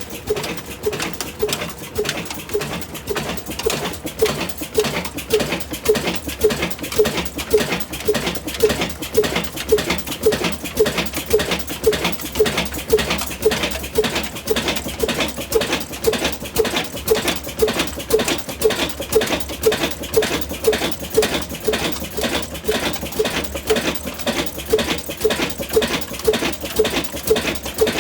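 A 75-year-old engine running at a slow, even beat of about two thumps a second.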